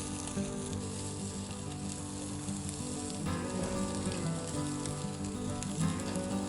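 Pork sizzling on a grill over a wood fire, a steady hiss with small crackles and pops of spitting fat. Soft sustained background music plays underneath, its chords changing twice.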